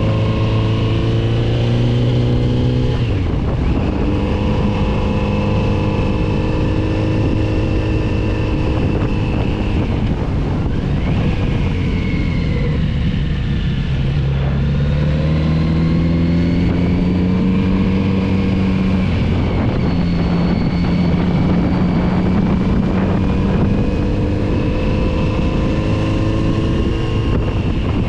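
Kawasaki Z900RS's inline-four engine riding through bends, with wind rush. The engine note dips about three seconds in, sinks slowly as the bike slows about halfway through, then climbs again as it picks up speed.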